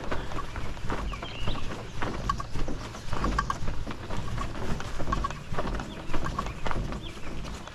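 A bird chirping in short clipped notes, two or three at a time, repeated every second or so, over a steady low rumble of wind on the microphone.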